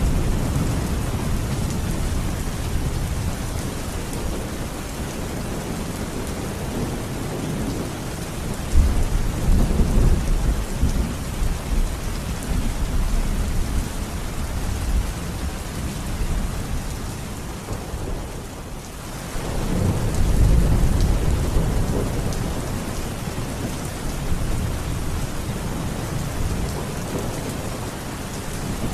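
Steady heavy rain with rolling thunder. The low rumble swells about a third of the way in and again about two-thirds through, just after the rain briefly drops away.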